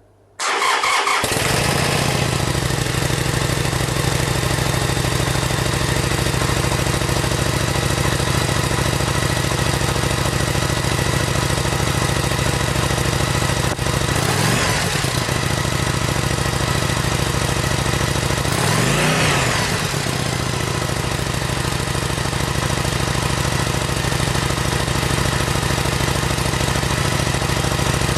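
A 2014 Harley-Davidson Sportster 883's air-cooled V-twin is started and settles into a steady idle through its exhaust. The throttle is blipped twice, briefly, about halfway through and again some five seconds later, the revs rising and falling back to idle each time.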